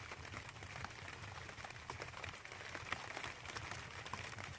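Rain falling, with many small scattered ticks of drops over a steady hiss and a low rumble.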